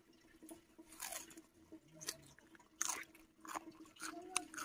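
Close-up chewing and wet mouth smacks of a person eating fish and rice wrapped in a cabbage leaf, with a few short crunches.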